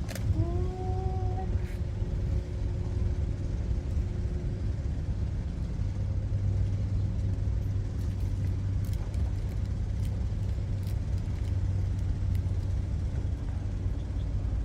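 Engine running steadily with a low hum, and a short rising tone about half a second in.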